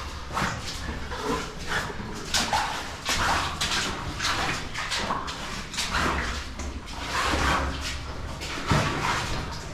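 Footsteps splashing and squelching through shallow water and soft mud on a cave floor, an uneven step about every half second to second.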